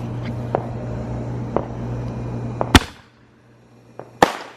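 Consumer fireworks going off: a few small pops, then a sharp loud bang and a second bang about a second and a half later.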